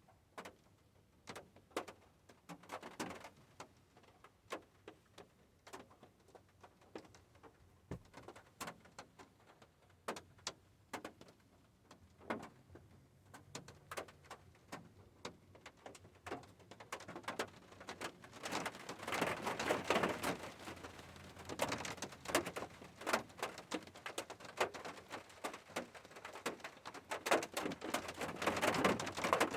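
Rain falling as separate drops tapping on a hard surface, irregular and sparse at first, then denser and louder from a little past halfway.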